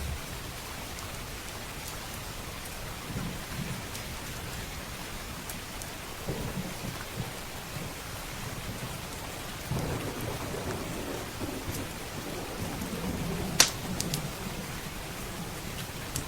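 Steady rain with thunder rumbling low several times, in separate swells. Faint crackles from a wood fire run through it, and one sharp pop near the end is the loudest sound.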